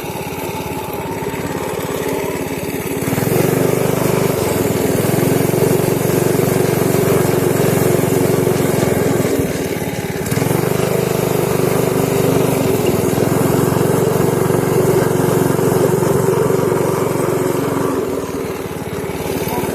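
Pit bike engine running during a ride: it picks up about three seconds in, dips briefly near the middle, pulls again, then eases off near the end.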